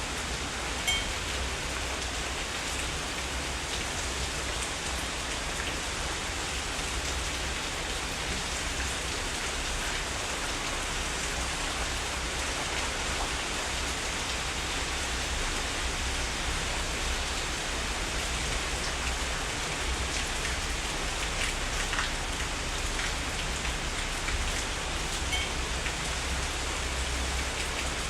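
Heavy rain falling steadily, an even hiss of countless drops with a low, steady rumble underneath. A sharper drip tick stands out about a second in.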